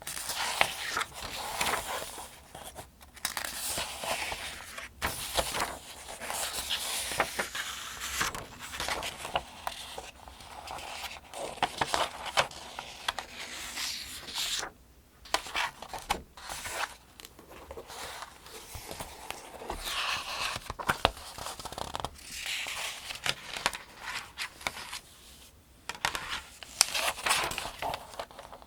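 Pages of the 2025 Farmers' Almanac being turned one after another, close up: a rhythmic, steady paper rustling and crinkling in repeated bursts, with a brief pause about halfway through.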